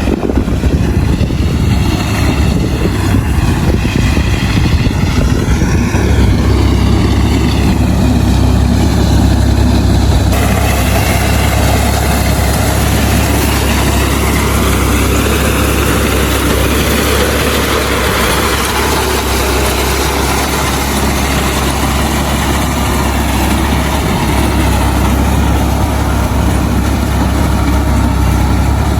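Tractor engine running steadily as it works the wheat harvest.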